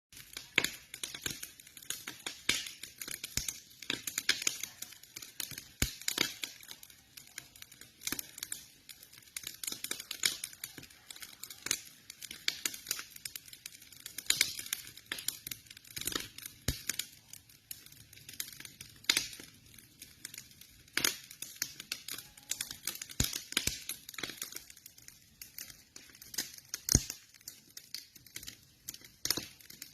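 Campfire crackling: wood burning with a steady stream of irregular small pops and snaps, and now and then a sharper, louder pop.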